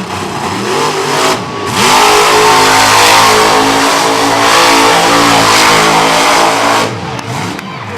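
Monster truck engine revving hard: it climbs to full throttle about two seconds in, holds there loud for several seconds, then backs off near the end.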